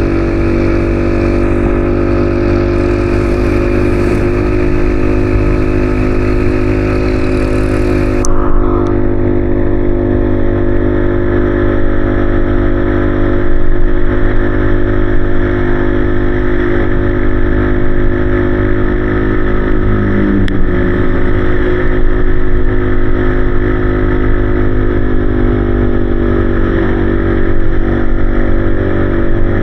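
Yamaha XSR155's single-cylinder engine running at a steady cruising speed under way, with a high hiss that drops away suddenly about eight seconds in.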